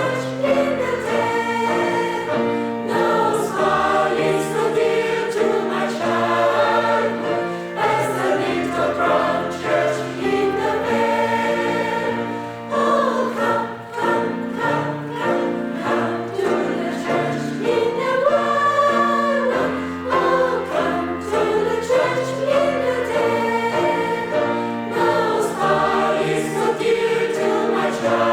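A choir singing a Christian song over a steady accompaniment of held bass notes.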